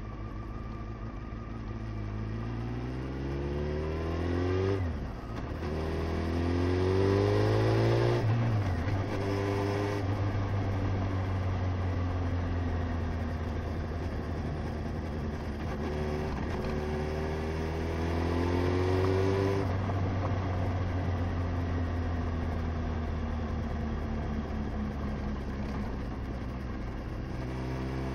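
Honda CBR motorcycle engine heard from on the bike, revving up through the gears with a short drop in pitch at each shift about five and nine seconds in. It holds a steady pitch for a while, climbs again, then winds down as the bike slows, and picks up once more near the end.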